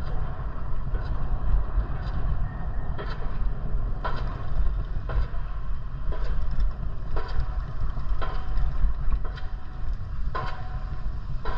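Wind rumbling on the microphone of a moving bicycle, with a sharp tick repeating about once a second.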